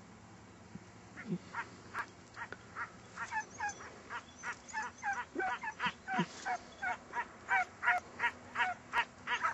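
Scent hounds baying in cry on a hare's trail: a rapid run of short, yelping calls, about two to three a second, several voices overlapping, starting about a second in and growing more continuous.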